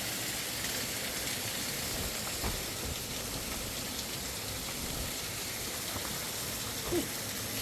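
Steady rush of running water from a mountain stream, with a couple of faint knocks.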